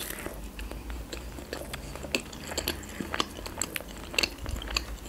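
Close-miked chewing of a McDonald's Chicken McNugget: a bite into the fried coating, then many small irregular crunches and wet mouth clicks.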